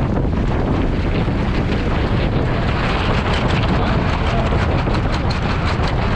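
Steady wind rushing over the microphone on a small sailboat under way, with water hissing and splashing along the hull.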